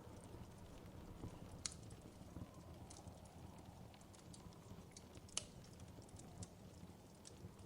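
Wood fire crackling faintly: scattered sharp pops over a low, steady rumble, the loudest pop about five seconds in.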